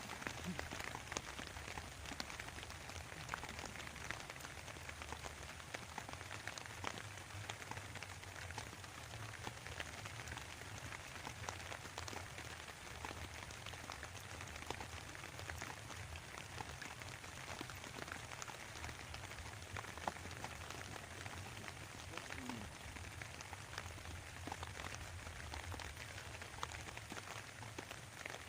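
Steady rain falling, with many individual drops tapping close by over a continuous hiss.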